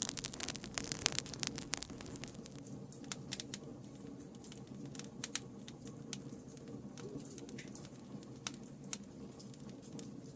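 Open wood fire crackling, with sharp pops coming thick and fast for about the first two seconds and then more sparsely, over a low steady hum.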